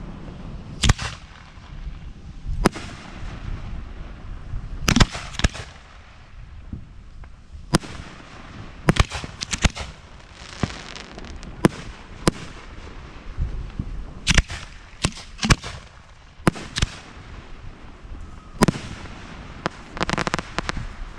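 Fireworks display at the firing line: irregular sharp bangs of shells, some in quick pairs and clusters, over a low rumble, with a run of rapid crackling near the end.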